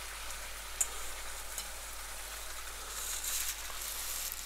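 Chopped taro stems sizzling and bubbling in a spiced sauce in a wok, with a couple of small pops about a second in.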